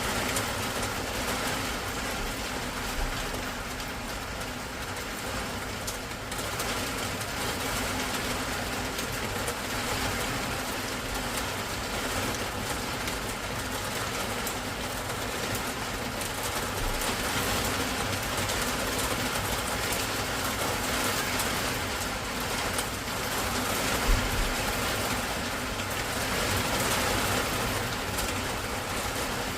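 Heavy rain falling steadily in an even hiss, with one short low thump about three quarters of the way through.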